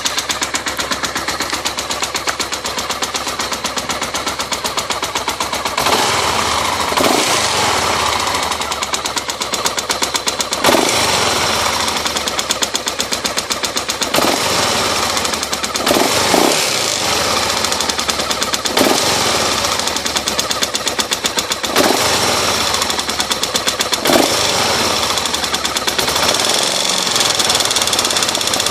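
An engine running with a fast, even knocking, swelling louder every two to three seconds; the uploader treats the knock as a strange noise.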